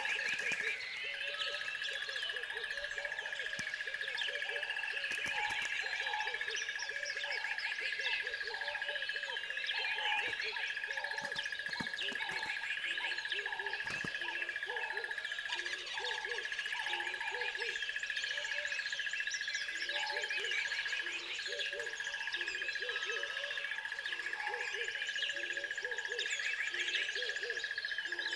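Nature soundscape of a bird chorus: many birds chirping densely over a low hooting call repeated about once a second, with a steady high-pitched whine held almost throughout.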